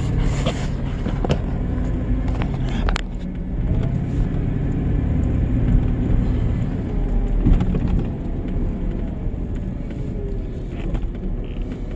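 Truck engine running with a steady low rumble, with a few brief clicks and knocks, the sharpest about three seconds in.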